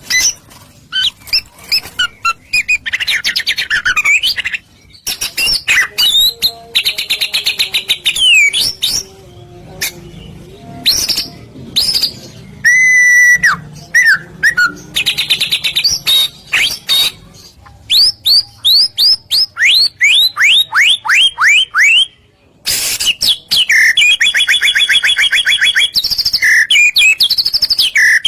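White-rumped shama (murai batu) singing a loud, varied full song: clear whistles and sweeping notes, a quick run of repeated notes each dropping in pitch, and after a brief pause, fast rattling trills.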